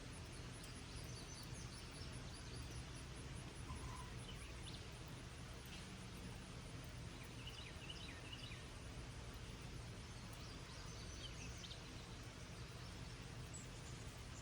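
Steady, faint hiss of light summer rain falling, with a songbird singing a few short, high warbling phrases over it.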